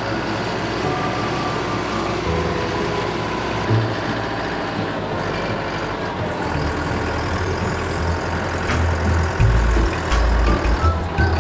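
A heavy vehicle or machine engine running, its low rumble shifting in pitch and load, getting louder and heavier from about nine seconds in.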